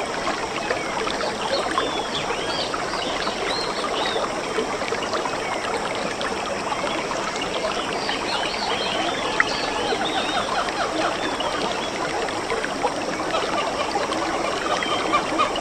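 Running stream babbling steadily, with many small birds chirping over it.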